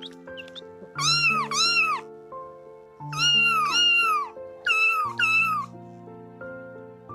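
A cat meowing six times in three pairs, each meow rising and then falling in pitch, over soft background music.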